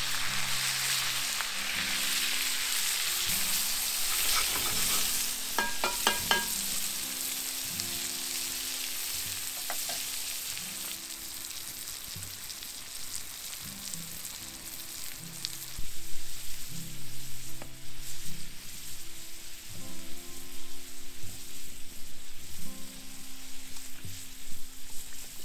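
Food sizzling and frying in a hot pot, the hiss loudest at first and easing off over the first half. A few short metallic clinks come about six seconds in, and soft music plays underneath.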